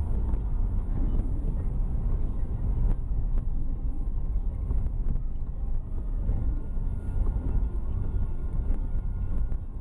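A car driving on snow-covered streets: a steady low rumble of engine and tyres.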